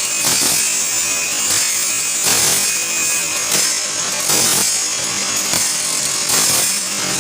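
Hand saw's teeth being sharpened, a rasping metal-on-metal grind repeated in strokes about every two-thirds of a second as the dull teeth are worked back to a point.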